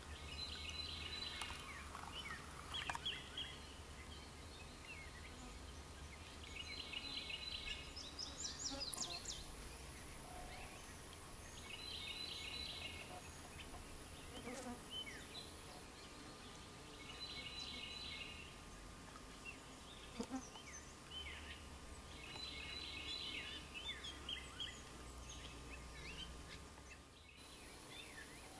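Birds singing: one short, rapid song phrase repeated about every five to six seconds, with scattered chirps and whistles between.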